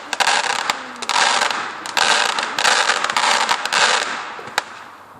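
Fireworks going off: a run of crackling, hissing bursts, about one a second, dying away near the end.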